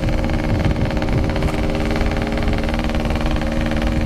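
Yamaha RX King's 135cc single-cylinder two-stroke engine running at steady revs, its exhaust pulses rapid and even, with low wind rumble on the microphone.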